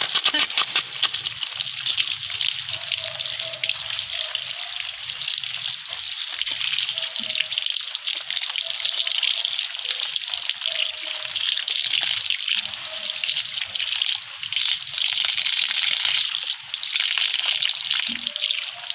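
Water splashing and pouring in uneven spells as arrowroot corms are washed by hand.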